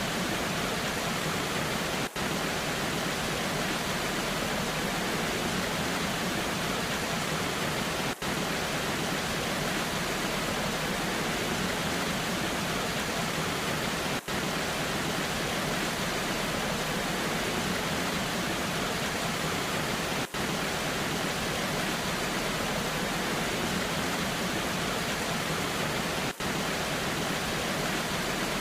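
Steady rushing of a waterfall with falling rain, an even, unchanging noise, broken by a brief drop-out about every six seconds.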